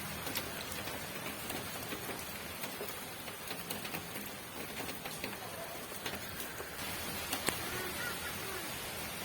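Steady rain falling: an even hiss with scattered drop ticks, and one sharper drip about seven and a half seconds in.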